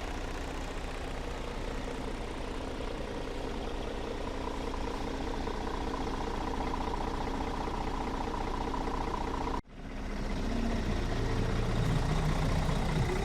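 Scania S450 truck's diesel engine idling steadily. About ten seconds in the sound cuts out for a moment, then comes back louder and lower.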